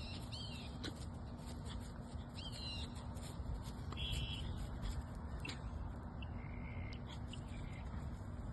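Birds chirping: a few short groups of quick rising-and-falling calls, with one brief steady note about four seconds in, over steady low background noise.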